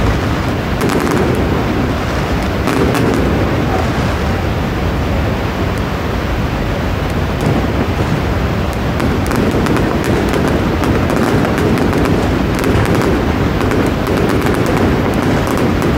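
Aerial fireworks going off in a dense, continuous run of bangs and sharp crackles from bursting shells and rising rockets.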